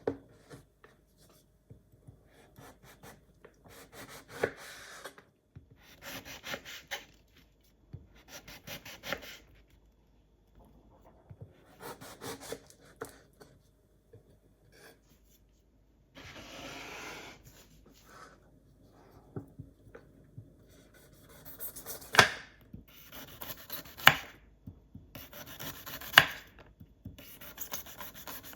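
Food being prepared on a wooden cutting board: irregular scraping and rubbing strokes, then, from about two-thirds of the way in, sharp knife strikes on the board roughly every two seconds.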